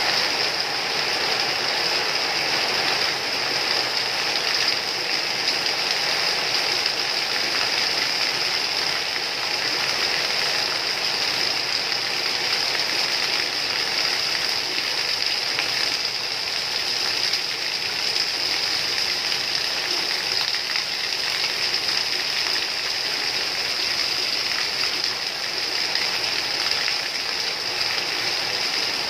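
Steady rain falling, a continuous even hiss with no breaks or separate drops standing out.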